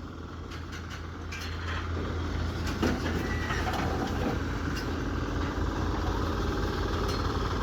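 An engine running steadily at a low, even pitch, with a few faint knocks.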